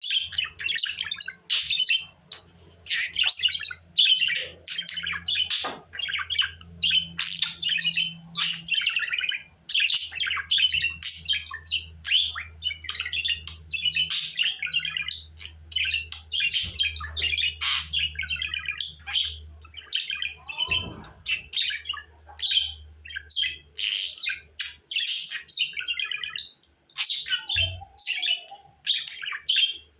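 Budgerigars chattering and warbling in a continuous run of quick chirps and trills, over a faint low hum.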